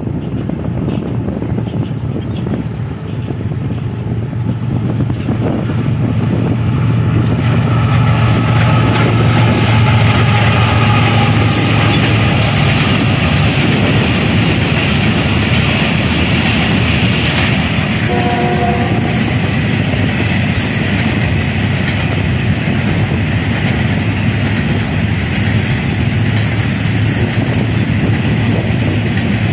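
Freight train of hopper wagons hauled by diesel locomotives running past close by: a steady, deep locomotive rumble and wheels clattering on the rails, building up over the first several seconds and then holding loud. About two-thirds of the way through, the locomotive sounds a short horn blast of about a second.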